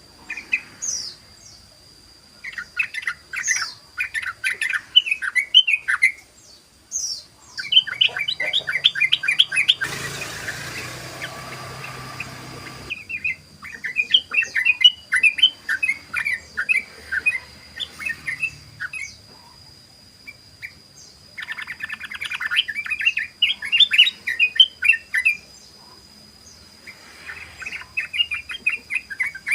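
Yellow-vented bulbul (trucukan) singing its rapid, bubbly rolling 'ropel' song in repeated bouts of a few seconds, with short pauses between. About ten seconds in, a three-second burst of hissing noise sounds under the song, and a faint steady high tone runs underneath.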